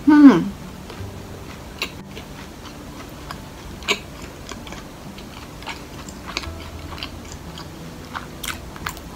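A person chewing food with the mouth closed, close to the microphone, with scattered soft wet clicks and smacks. It opens with a brief, loud 'mmm' hum from the eater that falls in pitch.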